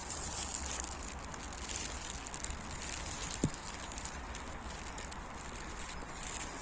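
Footsteps crunching and crackling on a dry outdoor path while walking, with a steady high chirring of insects behind them. A single short tap stands out about three and a half seconds in.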